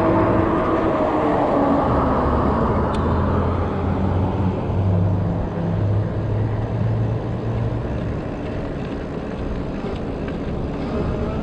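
Motor vehicle traffic passing close on the road: engine drone and tyre noise. A low engine hum fades out about eight seconds in.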